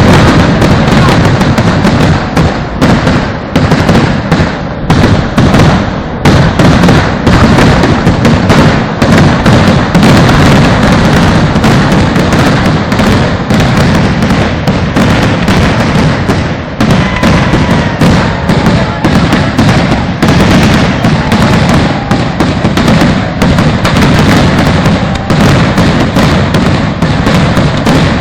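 Fireworks display: a loud, continuous barrage of exploding firecrackers, the bangs packed many to the second and overlapping without pause.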